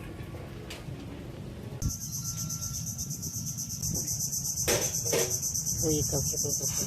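Insects chirring: a loud, high, steady, finely pulsing drone that starts suddenly about two seconds in, over a low rumble. A few short knocks and brief calls come through in the second half.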